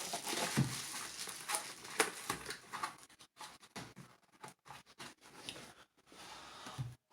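Scattered clicks, knocks and rustling of tumblers and their packaging being handled, with a low thump about half a second in.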